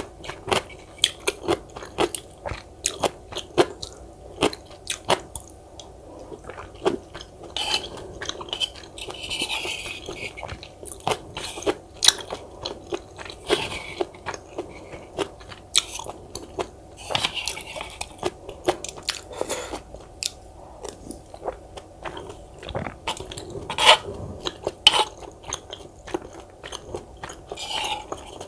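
Close-miked chewing and biting with many sharp crunches, typical of crunchy cubed radish kimchi (kkakdugi) being eaten.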